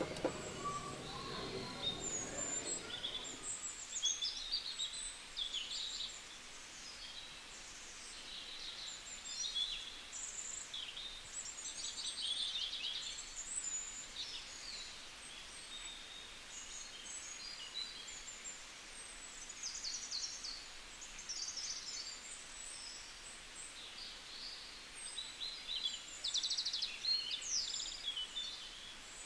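Small birds chirping, many short high calls coming in quick clusters over a faint steady background hiss.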